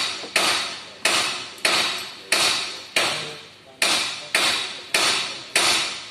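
Steady hammering: about ten even blows, roughly one every two-thirds of a second, each ringing out briefly.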